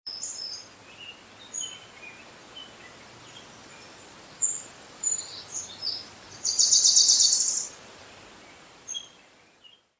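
Wild small birds chirping and calling: scattered short high chirps, with a rapid high trill lasting about a second starting about six and a half seconds in, the loudest sound. The sound fades out near the end.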